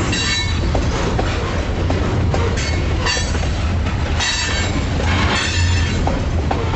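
Diesel freight locomotives moving slowly past with a steady low engine hum, broken four or five times by short high-pitched squeals from the wheels on the rails.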